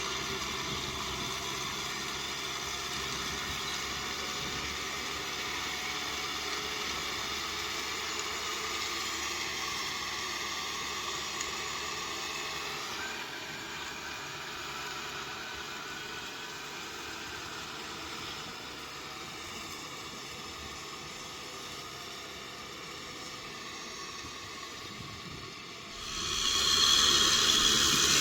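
Kubota M6040SU tractor's diesel engine running steadily under work. Near the end a much louder hissing, rushing noise comes in sharply over it.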